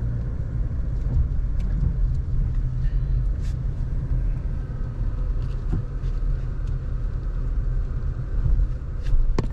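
Steady low rumble of a car's engine and tyres heard from inside the cabin while driving slowly, with a sharper click near the end.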